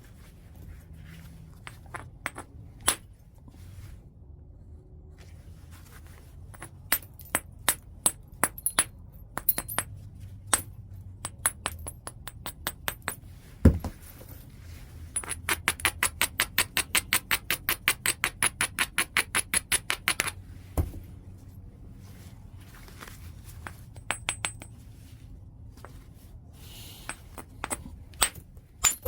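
Flintknapping a large piece of white chert: sharp, ringing clicks of a knapping tool striking the stone, scattered at first, then a long run of quick even light taps, about five a second, with a heavier blow shortly before it and another just after.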